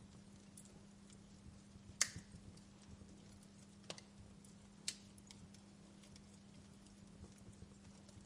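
Wood fire crackling faintly: scattered small ticks with a few sharper pops, the loudest about two seconds in, over a steady low hum.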